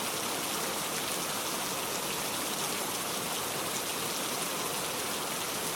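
Heavy rain falling steadily on a metal roof, a dense even hiss with fine drop ticks. No thunder is heard.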